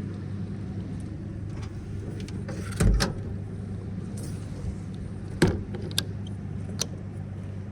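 Pickup truck's V6 engine running with a steady low hum, with several sharp knocks and thumps on top, the loudest about three seconds in and again about five and a half seconds in.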